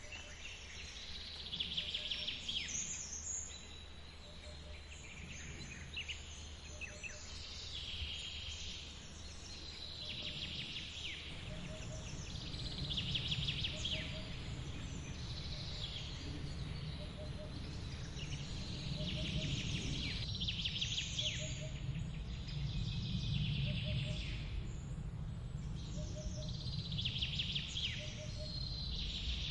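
Forest songbird singing repeated short phrases with quick falling notes, one every few seconds, over the steady low rush of a waterfall. Faint short low notes recur about every two seconds.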